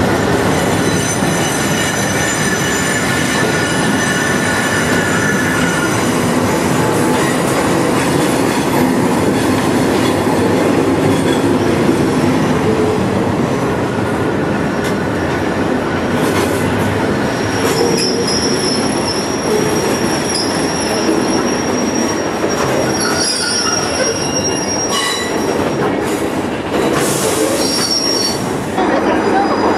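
Passenger train of green heritage coaches rolling slowly past a platform, a steady rumble of wheels on rail with high-pitched wheel squeal that comes and goes, most persistent in the second half.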